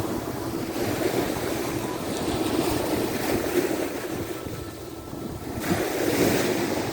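Waves of the Sea of Azov breaking and washing on the shore, with wind buffeting the microphone. The surf dips for a moment and then surges again near the end.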